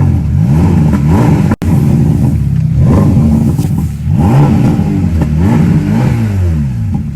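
Ferrari Roma's twin-turbo V8 blipped several times shortly after a cold start, each rev rising and falling back to a fast idle, with a brief cut in the sound about a second and a half in.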